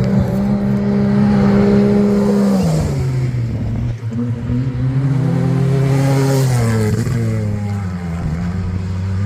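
Rally-raid competitor's engine running hard at high revs, dropping in pitch about three seconds in, revving back up and then falling away again as the vehicle passes.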